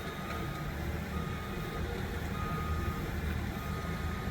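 A vehicle's reversing alarm beeping at one steady pitch, about four beeps evenly spaced a little over a second apart, over a low wind rumble.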